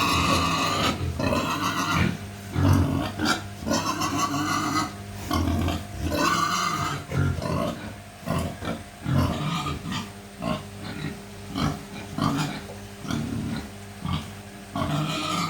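Pig grunting and squealing in irregular bursts, with a few high squeals. The pig is presented as sick with pasteurellosis (swine haemorrhagic septicaemia).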